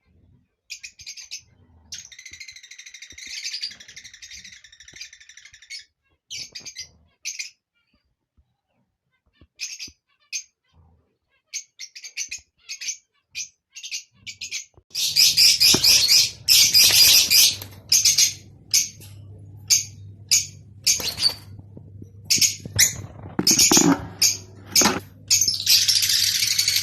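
Lovebirds chirping and chattering in sharp, high calls, with a running chatter early on. The calls turn louder and denser about halfway through, over a steady low hum.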